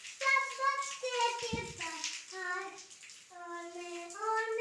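A young child singing in a high voice, holding and sliding between notes in short phrases. A brief low thump about one and a half seconds in.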